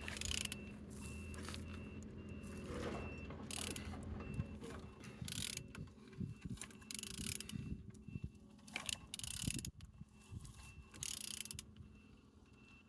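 Opel A12XER 1.2-litre four-cylinder petrol engine being turned over by hand, with a run of irregular mechanical clicks and scraping strokes. The engine turns freely and is not seized.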